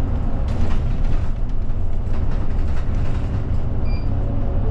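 Cabin noise inside a route bus on the move: steady low engine and road rumble. A short faint high tone sounds about four seconds in.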